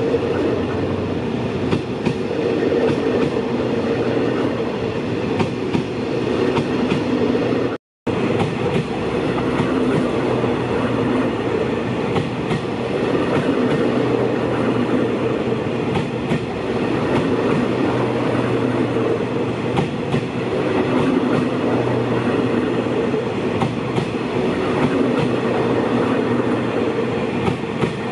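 Train of empty coaches hauled by a diesel locomotive rolling past, a loud steady rumble with wheels clacking over rail joints. The sound cuts out for a split second about eight seconds in.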